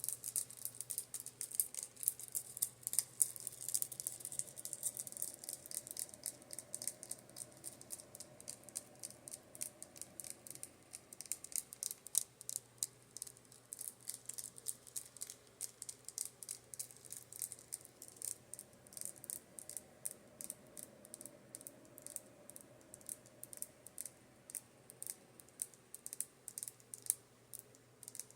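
Rapid, irregular light tapping on makeup brushes: many quick, crisp clicks. Under it, a steady low fan hum with a faint whoosh that swells and fades twice as the oscillating fan turns.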